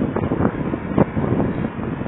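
Wind buffeting the microphone of a camera worn by a cyclist riding, an uneven rumble with irregular short bumps.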